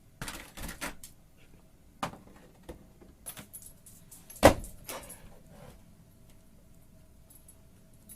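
Scattered knocks and clatters of small hard objects, the loudest a sharp knock about four and a half seconds in.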